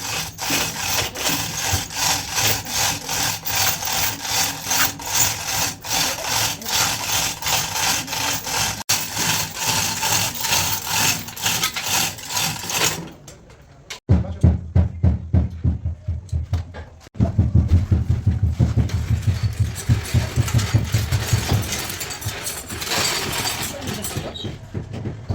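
Repeated back-and-forth rubbing or scraping strokes of a hand tool on a panel, about two a second. After an abrupt change comes a deeper, pulsing rubbing sound in similar strokes.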